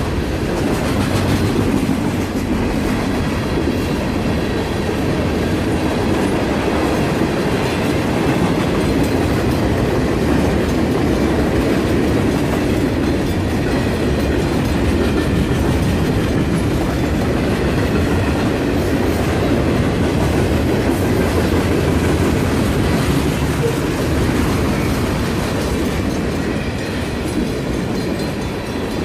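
Freight train cars rolling past a grade crossing, a steady rumble of wheels with clickety-clack over the rails.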